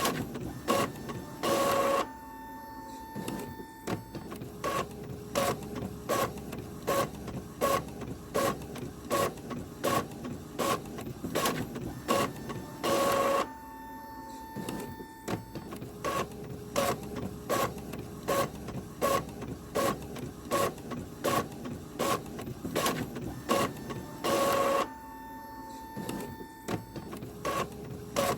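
Printer running in a repeating cycle about every eleven to twelve seconds: a short loud burst of noise, a quieter stretch with faint steady tones, then a long run of quick clicks and ticks.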